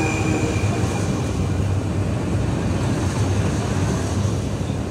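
RhB Capricorn electric multiple-unit cars rolling slowly past close by: a steady low rumble of wheels on the rails, with a hiss above it.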